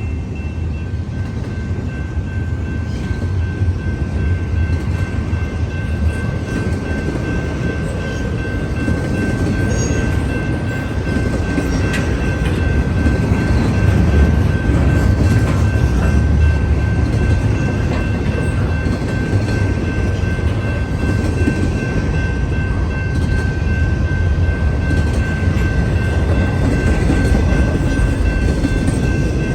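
CN freight train passing, a steady heavy rumble on the rails that grows louder over the first half, with a steady high-pitched whine over it.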